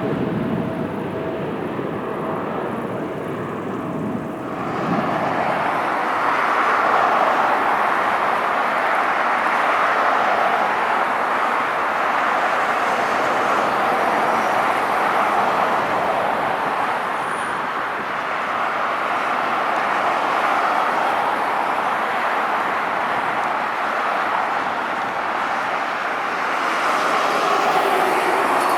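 Boeing 777's GE90 turbofan engines running at high thrust: a loud, steady jet roar. About four seconds in the sound cuts to a louder, fuller roar.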